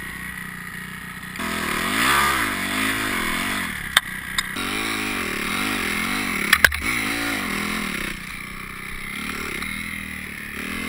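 Kawasaki KX250F single-cylinder four-stroke dirt bike engine revved up and down over and over, its pitch rising and falling several times in a row before dropping back to a steady low running. There are two sharp knocks in the middle of the revving.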